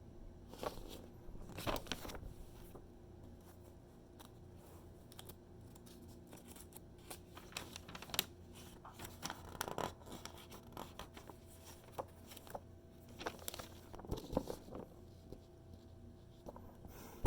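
Magazine pages being turned and handled: paper rustling in several separate swishes, with small crisp ticks and crinkles between them.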